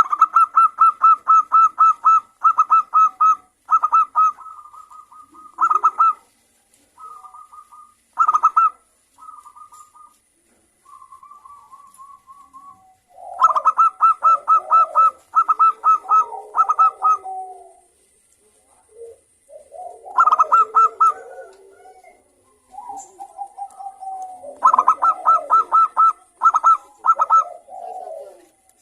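Several local zebra doves (perkutut) calling back and forth: runs of rapid, high staccato notes. From about halfway through, lower rolling coos overlap them, with short pauses between bouts.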